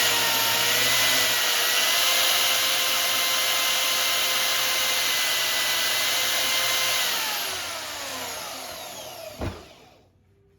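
Hercules portable band saw running free with no load, a test run of a freshly fitted blade to check it tracks on the drive-wheel rubber tires. A steady motor whine rises a little about a second and a half in, holds, then falls away about seven seconds in as the saw coasts to a stop, with one short knock near the end.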